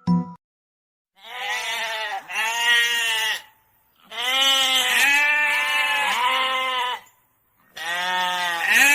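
Sheep bleating: several long bleats in three bouts separated by short silences.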